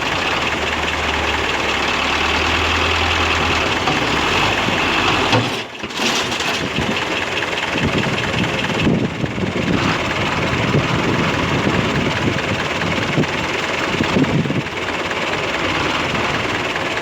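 Tractor engine running continuously, with a brief drop in level about six seconds in.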